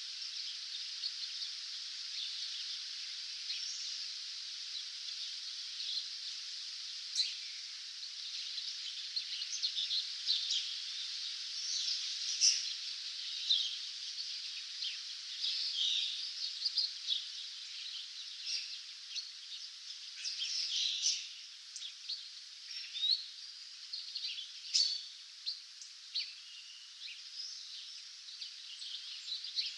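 Many songbirds singing together in a dawn chorus: overlapping high chirps and short trills come one after another over a steady high hiss.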